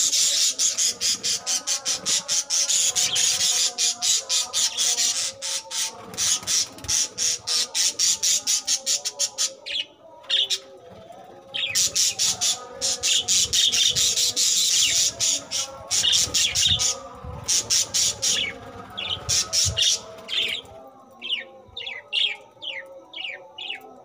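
A flock of budgerigars chattering and squawking: dense runs of rapid, harsh calls broken by two short pauses, then separate downward-gliding chirps near the end.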